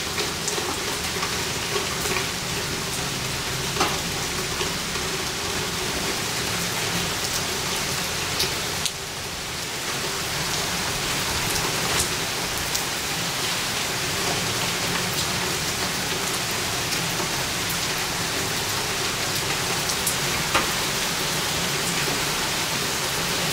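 Steady rain falling on pavement and grass, an even hiss with scattered sharper drop ticks. The level dips briefly about nine seconds in.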